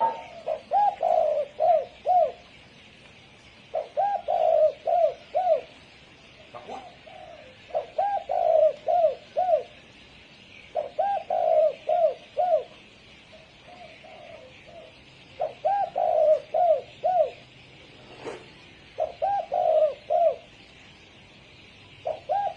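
Spotted dove cooing: phrases of four or five short arched coos, the first one longest, repeated about every three and a half seconds. A faint steady hiss runs underneath, and there is one sharp click late on.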